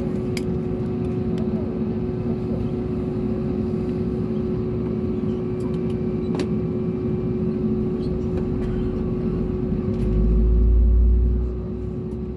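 Airbus A320neo cabin noise with the engines at idle: a steady hum with a constant tone over a low rumble. About ten seconds in, a deep rumble swells for a second or so and fades.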